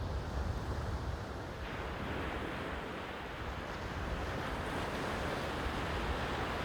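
Sea surf washing steadily against the shore, with wind rumbling on the microphone. About two seconds in, the hiss of the water suddenly becomes fuller and brighter.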